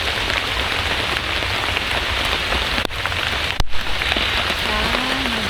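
Heavy rain falling steadily, with a brief break about three and a half seconds in. A voice begins faintly near the end.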